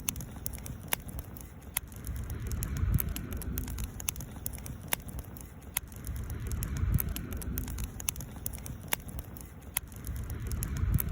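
Wood fire crackling: scattered sharp pops of burning wood over a low rumble that swells and fades.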